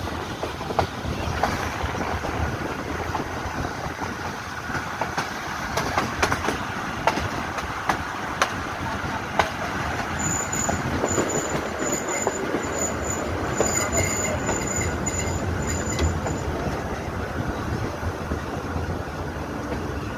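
Passenger train running on the rails: a steady rumble with irregular clicks of the wheels over rail joints. From about ten seconds in, a high, broken squeal of the wheels grinding through the curve lasts about six seconds.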